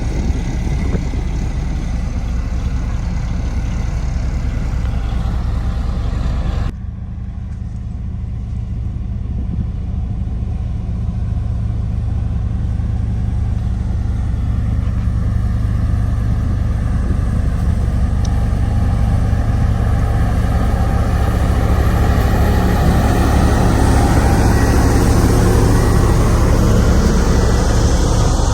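Sakai road roller's diesel engine running steadily with a low drone. About a quarter of the way in the sound changes abruptly and becomes duller, then grows gradually louder toward the end.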